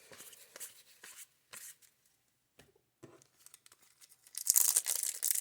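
Faint rustling and clicks of cards being handled, then about four seconds in a loud crinkling tear: a sealed pack of baseball cards being ripped open.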